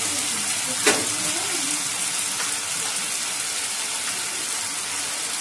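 Potatoes, peas and freshly added chopped tomatoes frying in hot oil in a nonstick kadai, with a steady sizzle. A single sharp tap sounds about a second in.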